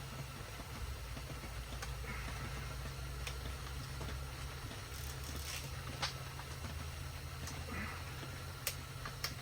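A few sharp, separate clicks and taps of hand tools and metal engine parts being handled, over a steady low hum.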